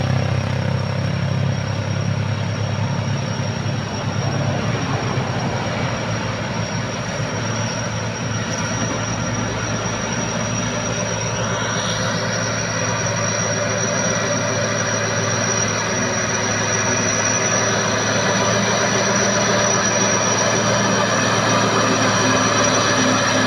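Hino truck's diesel engine working up a steep hill under load, with a steady high whine over it. The engine note shifts about halfway through and grows gradually louder toward the end.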